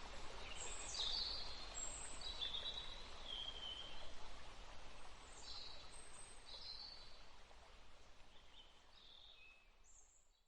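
Forest stream running steadily with songbirds singing short high phrases, about one every second or two. The whole sound fades out over the last few seconds.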